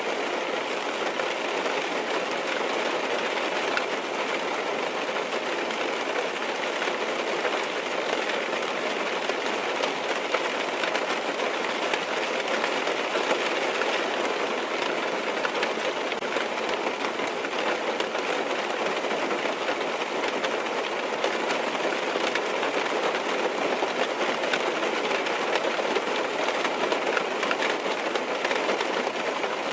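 Rain falling on a car's roof and windows, heard from inside the cabin: a steady, unbroken hiss with faint ticks of single drops.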